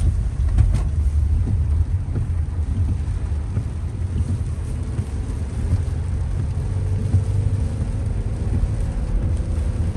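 Honda Pilot SUV driving, heard from inside the cabin: a steady low road and engine rumble, with a faint engine note slowly rising in pitch in the second half as the car speeds up.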